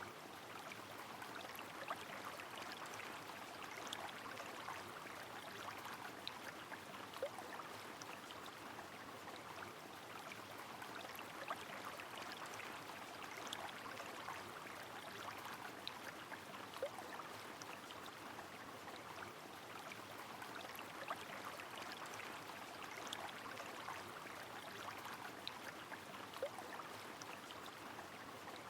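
River water flowing steadily with rain, a constant rush dotted with single sharp drip-like ticks every second or two.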